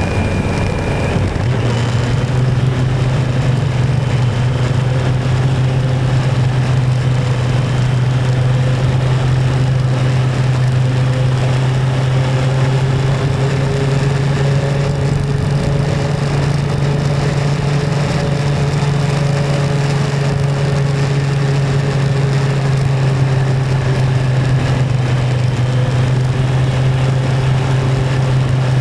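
Motorcycle engine running steadily while riding, its pitch stepping up about a second and a half in and then holding, with road and wind noise underneath.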